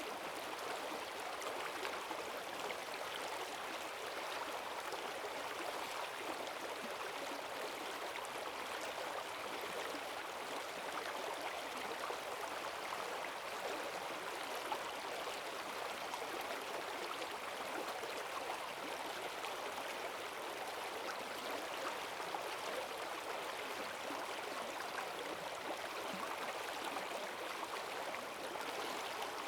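Forest stream in spate after heavy rain, its water rushing steadily over the streambed with strong currents.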